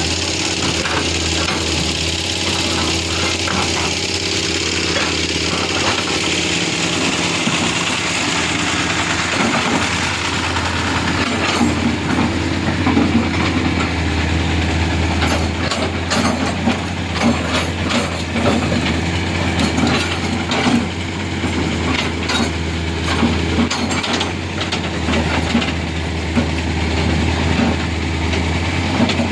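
Large diesel engine running steadily with a deep hum, with scattered short knocks and clanks in the second half.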